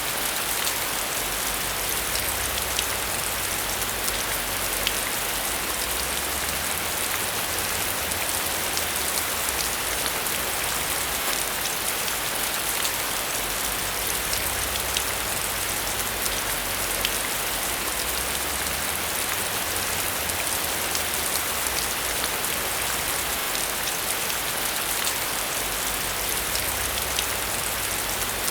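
Steady rain falling: an even, dense hiss with individual drops ticking through it.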